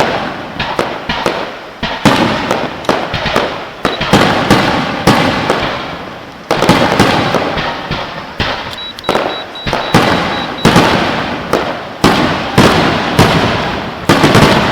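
Fireworks display: a rapid barrage of aerial shells bursting, about two to three loud booms a second, each trailing off in crackle.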